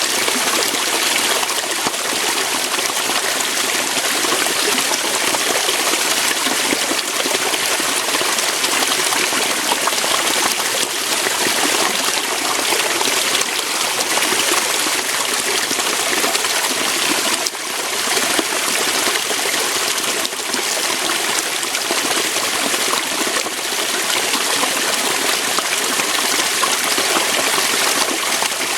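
Waterfall: water flowing over rocks in a steady, unbroken rush, with hardly any deep rumble.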